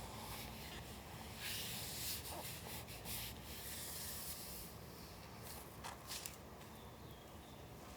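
Paper handled by hand: a dry, scraping rub of paper lasting about three seconds, starting about a second and a half in, followed by a few short, light clicks near six seconds.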